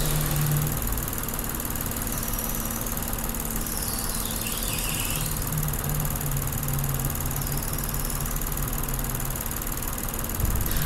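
Car engine idling steadily, heard close up from inside the open engine bay, running on a molybdenum-treated oil.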